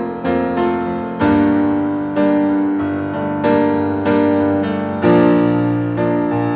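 Solo piano playing sustained chords, a new chord struck roughly every second and ringing out between strikes.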